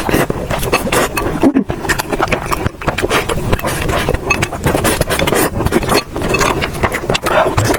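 Close-miked eating sounds: steady chewing with a dense run of quick wet clicks and crackles.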